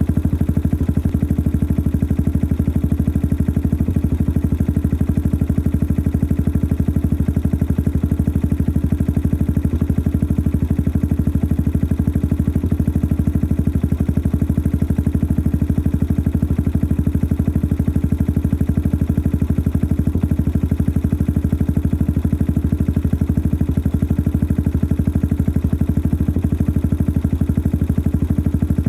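Yamaha XT 600 (43F) single-cylinder four-stroke engine idling steadily through a modified stock exhaust, with an even, rapid pulse of exhaust beats. The owner calls the engine noisy.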